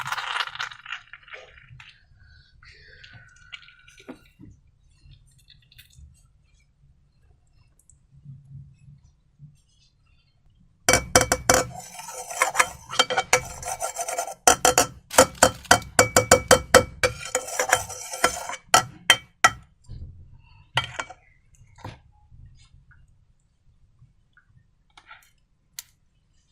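A spoon stirring in a bowl, clinking rapidly against its side for about nine seconds from just before halfway in, with a short break in the middle; slime ingredients being mixed. Before that, only faint small handling sounds.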